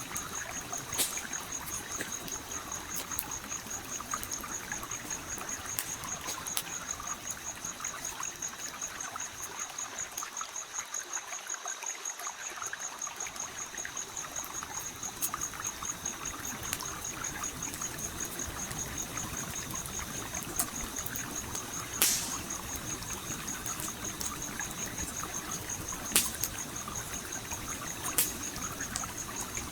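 Stream trickling and flowing steadily, with a campfire's sharp pops and crackles scattered through it, two of them louder than the rest about three-quarters of the way in. A steady, high-pitched pulsing tone runs underneath.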